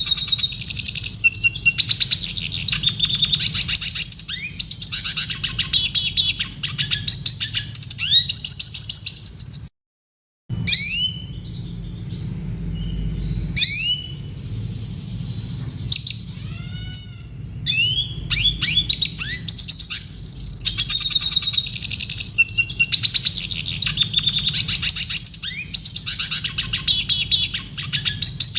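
Red siskin singing a fast, continuous twittering song. About ten seconds in it breaks off into a second of silence, followed by several seconds of separate rising calls before the full song resumes.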